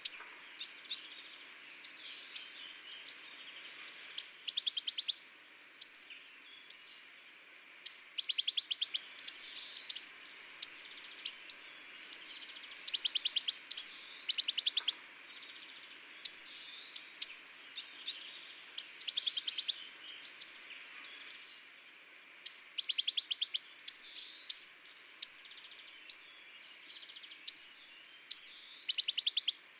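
Small songbirds chirping, with many short high call notes between them. Every few seconds there is a fast, dry trill that lasts under a second.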